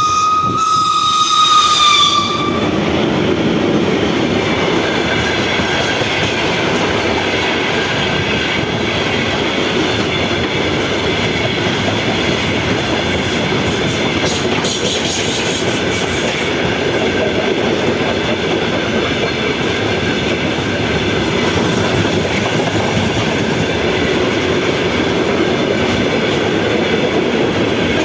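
A train sounds a high, single-pitched whistle for about two seconds at the start, then passes with a steady rumble and wheel clatter on the rails.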